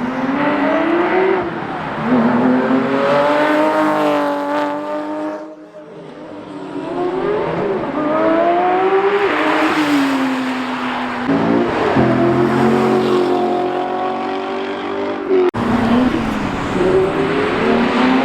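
Car engines revving hard and accelerating away one after another, the engine pitch climbing and dropping with each rev and pass.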